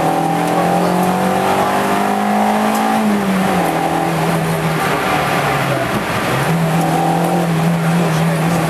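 Peugeot 205 GTI's 1.6-litre four-cylinder engine heard from inside the cabin under load, its note slowly climbing for about three seconds and then dropping. It dips away briefly around the middle and then holds steady, over a constant hiss of wet road noise.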